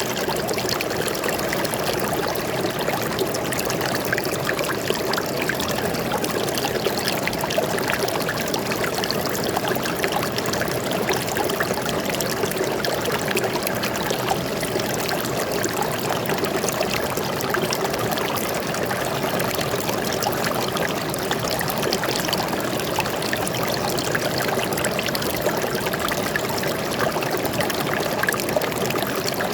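Water flowing and trickling steadily over rocks in a forest stream, an even babbling with no breaks.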